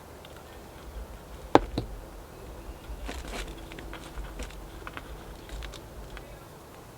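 Handling sounds from repotting work: a sharp knock about a second and a half in, a smaller one just after, then scattered light clicks and rustling, over a low rumble.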